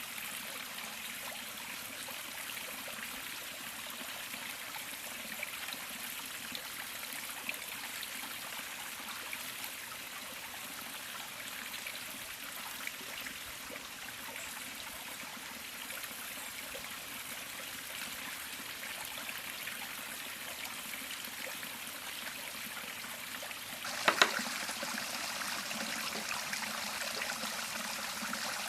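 River water flowing steadily over stones. About 24 seconds in come two sharp knocks, after which the water sounds a little louder and hissier.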